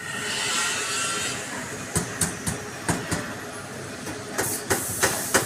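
A hissing noise for about two seconds, then a run of about nine sharp, irregularly spaced hammer blows on steel as a dented truck front bumper is beaten out.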